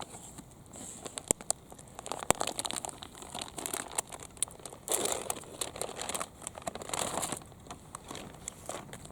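Crinkling, rustling handling noise with many scattered sharp clicks and taps, in irregular bursts, loudest about halfway through and again near the end.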